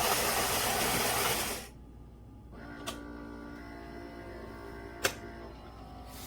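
Philips Series 3300 espresso machine's ceramic grinder grinding coffee beans, a dense whirring that stops about a second and a half in. After a short pause the machine's motor starts a quieter steady hum, with two sharp clicks.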